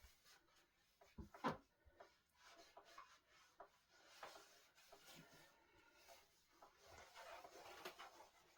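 Near-quiet room with faint handling noises around a solid-wood table: a few light knocks, the clearest about one and a half seconds in, and some soft rubbing toward the end.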